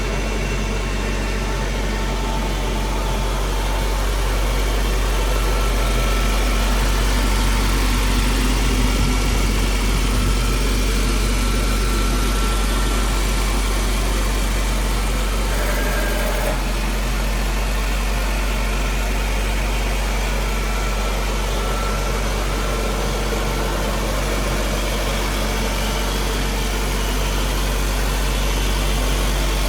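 Citroën DS23ie fuel-injected four-cylinder engine idling steadily after a cold start. The hydraulic pump and regulator cycle with long pulses between pump cycles, a sign that the hydraulic system is in healthy condition.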